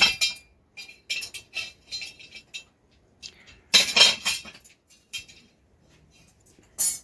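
Metal dishes and utensils clinking and scraping in a series of short clattering bursts, loudest about four seconds in and again near the end.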